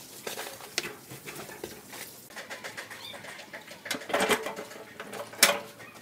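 A bird calling over scattered knocks and clatter from the building site, with one sharp loud knock about five and a half seconds in.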